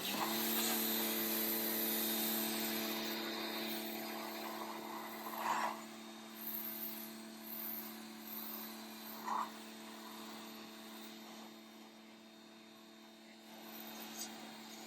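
Pressure washer running: a steady motor hum under the hiss of the water jet, gradually fading, with a couple of short higher-pitched blips.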